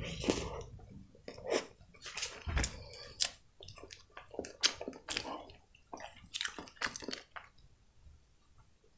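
Close-miked chewing of a soft cream-filled muffin: a string of short, irregular wet mouth clicks and smacks with little gaps between them, falling quiet near the end.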